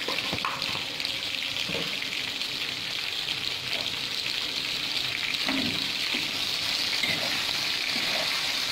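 Chopped onions and browned chicken pieces sizzling steadily in hot oil in an iron kadai, with a few faint knocks. Near the end a spatula begins stirring them.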